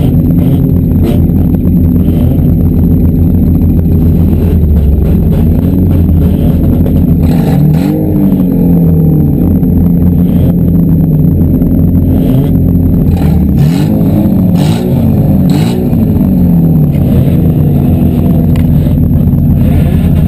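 Loud engines of several demolition derby cars revving, their pitch sweeping up and down again and again, with scattered knocks from the cars hitting each other.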